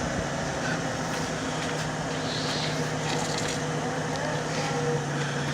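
Truck engine idling steadily while the truck is stopped.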